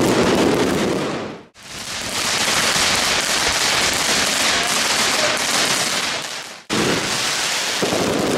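Fireworks crackling and hissing in a dense, rain-like spray of noise, cut abruptly twice as one clip gives way to the next.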